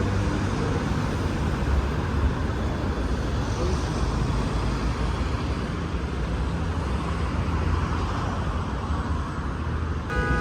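Steady rumble of road traffic, with a short tonal beep like a horn toot at the very end.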